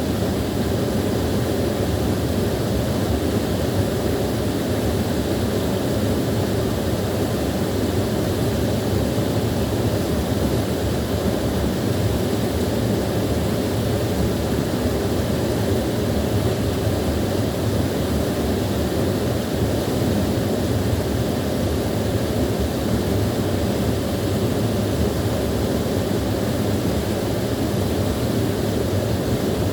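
Small waterfall with water rushing and splashing in a steady, unchanging stream, fullest in the low and middle range.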